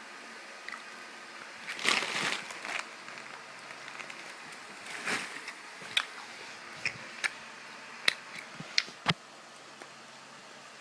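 Candy wrapper or bag crinkling in two short bursts, then several sharp clicks and taps, over a steady faint hiss.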